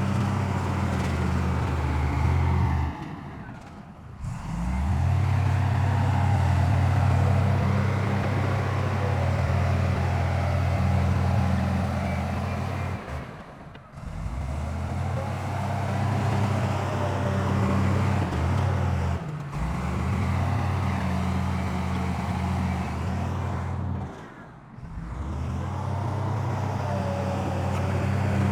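Heavy diesel engine of earthmoving machinery running with a steady low drone and a rough mechanical rattle above it. The sound drops out briefly four times and picks up again each time.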